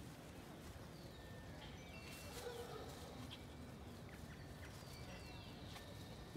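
Quiet outdoor ambience with small birds chirping now and then, short high chirps scattered over a low steady background hum.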